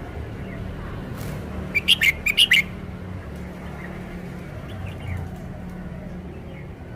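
Red-whiskered bulbul singing: a quick phrase of about six loud, sharp notes about two seconds in, with fainter chirps before and after, over a low steady hum.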